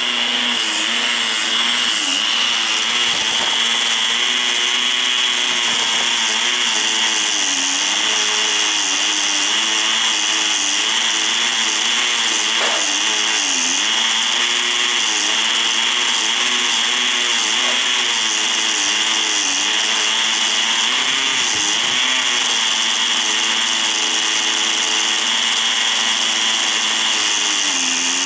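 Small two-stroke glow-fuel engine of a Tamiya TGS 1/10 nitro RC car running hard. Its pitch rises and dips continually as the throttle is worked.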